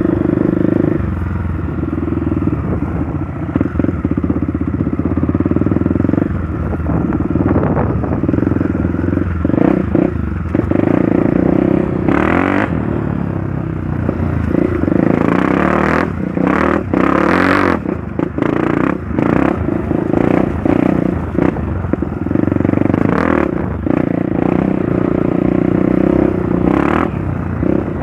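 Trail motorcycle engine running steadily while riding, with clattering knocks and rattles over rough ground, heaviest around the middle.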